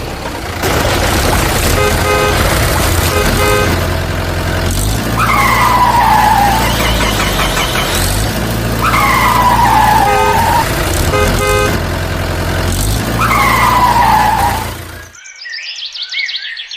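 Cartoon tractor sound effects: a steady engine rumble with a run of short horn toots about two seconds in and again around ten seconds, and three falling tones, each about a second and a half long. The engine sound stops suddenly near the end, leaving a faint high twittering.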